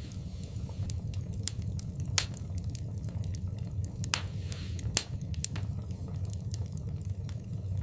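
Wood fire in a fireplace crackling: irregular sharp pops and snaps over a steady low rumble of the flames, the loudest pops about two seconds in and about five seconds in, with a brief hiss just after four seconds.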